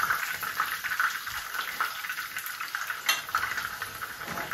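Breaded chicken fillets shallow-frying in hot oil in a pan: a steady crackling sizzle, with a single sharp click about three seconds in.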